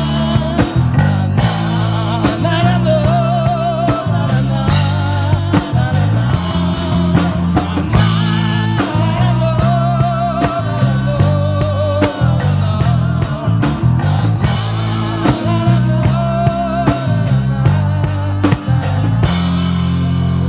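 Live rock band playing an instrumental passage: drum kit and bass under a wavering lead melody line with guitar. About nineteen seconds in the drums stop and a low chord is left ringing.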